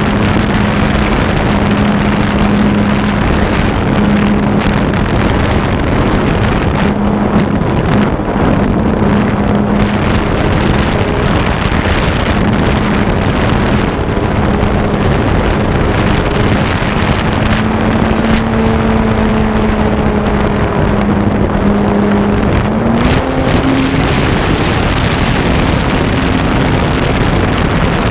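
Steady wind rush over a GoPro mounted on a flying RC airplane, with the plane's motor and propeller droning at a held pitch that wavers and steps a little higher about three-quarters of the way through.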